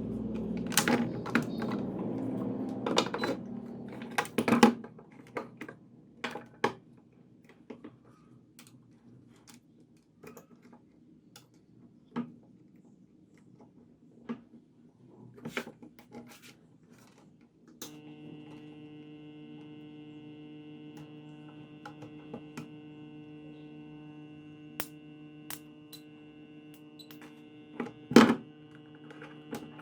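Homemade spot welder's microwave-oven transformer humming steadily at mains frequency, with scattered clicks and taps. The hum is louder in the first few seconds, fades, then starts again partway through, and there is a sharp thunk near the end.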